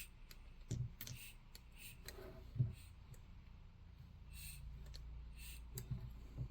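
Faint clicks and short airy puffs of a Mityvac hand vacuum pump being squeezed a few times to draw vacuum on a two-stroke chainsaw's sealed crankcase for a leak-down test.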